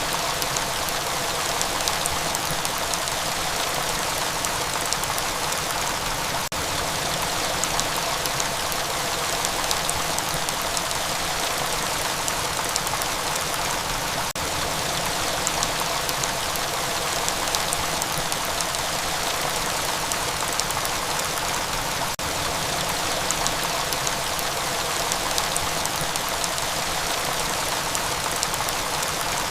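Steady rain: an even hiss of falling water with scattered small drop ticks.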